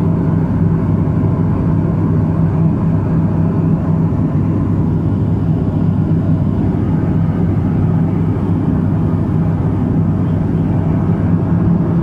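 Let L-410 twin-turboprop aircraft running steadily, a loud even drone with a strong low propeller hum.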